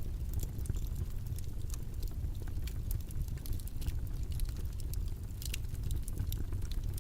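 Steady low background rumble with many faint, irregular clicks and crackles scattered through it.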